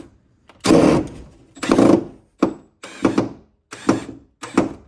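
Cordless drill/driver with a right-angle head driving a screw through an oak spacer block into plywood in short trigger pulses, about six bursts less than a second apart.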